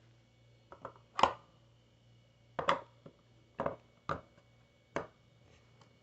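About six short, sharp clicks and knocks at uneven intervals, the loudest about a second in, over a faint low steady hum.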